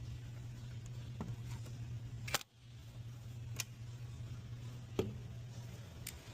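A few separate sharp clicks, roughly a second apart, over a steady low hum; the loudest click comes about two and a half seconds in, and the sound drops out briefly right after it.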